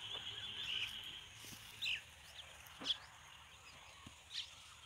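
Faint bird calls: a thin high trill that stops about a second in, then a few short, separate chirps, the loudest about two and three seconds in.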